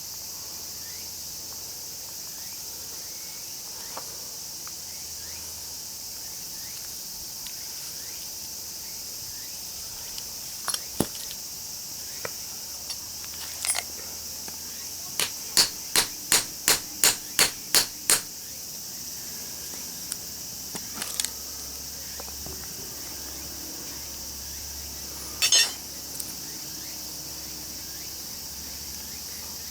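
Hammer blows on metal: a few single knocks, then a quick even run of about eight strikes in three seconds, and another hit later, over a steady chirping of crickets.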